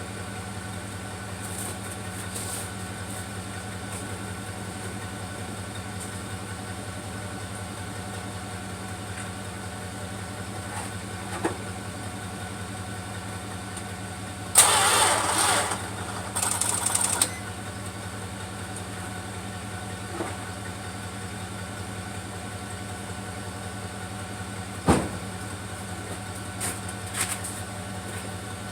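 1974 Plymouth Duster's slant-six engine idling steadily after a cold start. Two loud bursts of rushing noise, about a second and a half and then a second long, come about halfway through, and a sharp knock comes near the end.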